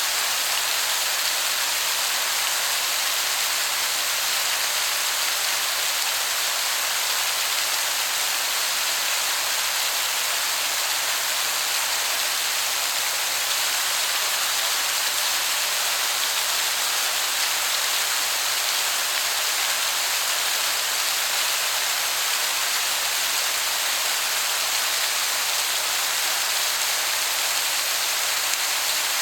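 Waterfall heard from a distance, a steady hiss of falling water that sounds like heavy rain.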